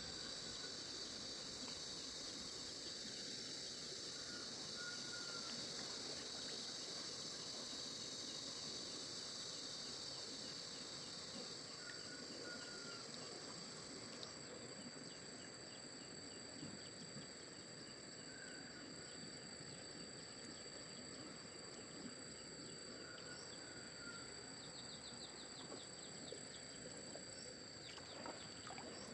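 Insects calling, a steady high-pitched drone at two pitches, with a few short bird chirps now and then. A few sharp clicks come near the end.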